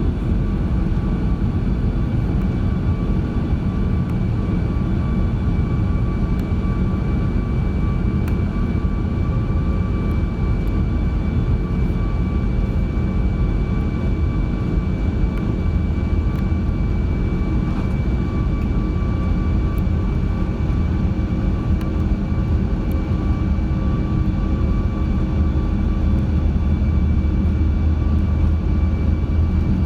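Cabin noise of an Airbus A340-600 with its four Rolls-Royce Trent 500 engines running: a steady low rumble under a constant whine, the rumble growing a little heavier in the second half.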